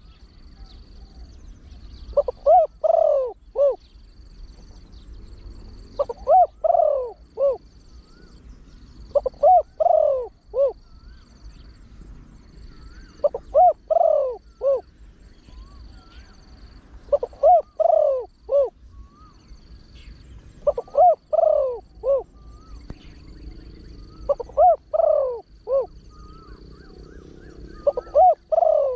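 Spotted dove cooing in a deep voice: eight phrases of about four hooting notes each, repeated every three to four seconds.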